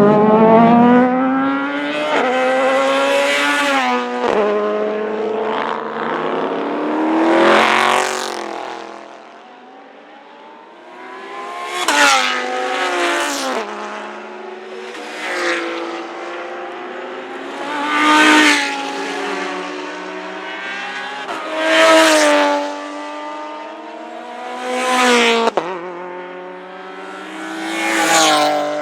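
Race cars passing one after another at full throttle, about every three to four seconds, each one loudest as it goes by. Engine pitch climbs as they accelerate and drops back at each upshift.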